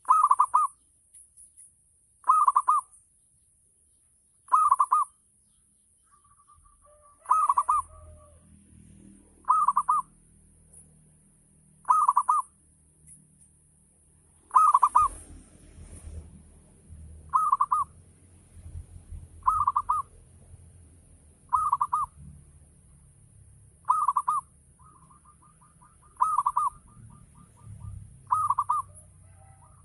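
Zebra dove (perkutut) cooing the same short phrase over and over, about once every two seconds, with softer trilled notes between a few of the calls. A faint low rumble lies behind from about eight seconds in.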